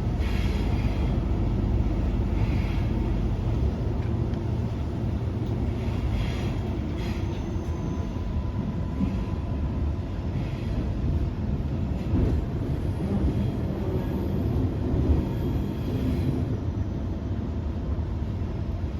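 Queensland Rail NGR 700 series electric multiple unit heard from inside the carriage, running with a steady low rumble of wheels on track and faint whining tones as it comes into a station.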